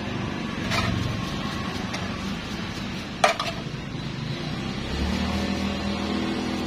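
Steel wheel bearing parts being washed and handled, with sharp metallic clinks, a light one about a second in and the loudest a little after three seconds, over a steady low hum.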